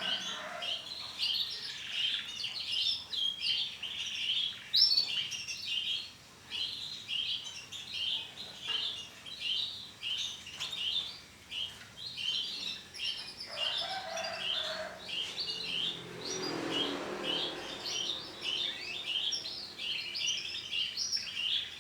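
Canaries chirping and twittering in quick, continuous trills.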